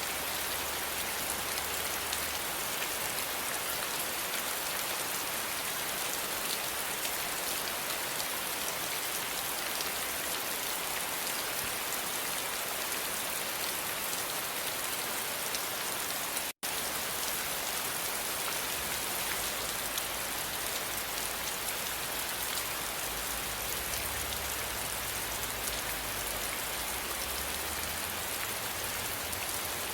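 Steady rain falling on a surface, an even hiss of many drops, with a split-second dropout about halfway through.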